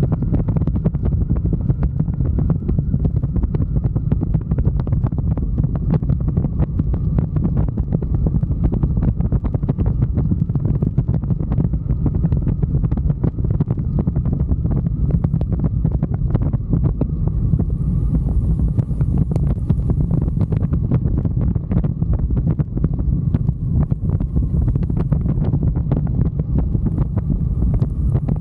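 Wind rushing and buffeting against the microphone of a moving motorcycle, a steady low rumble with constant crackling gusts.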